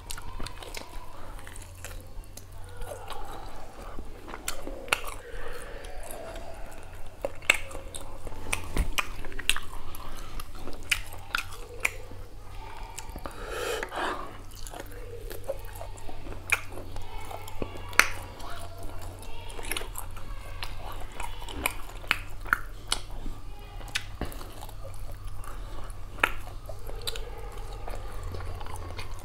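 Close-miked chewing and lip-smacking by a man eating beef curry and rice by hand, with many short wet mouth clicks. A steady low hum runs underneath.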